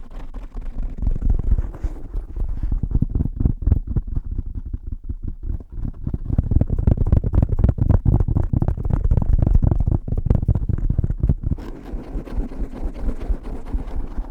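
Fast, aggressive tapping on a cover fitted over a Blue Yeti microphone: a rapid stream of muffled, deep thumps right against the mic, easing off near the end.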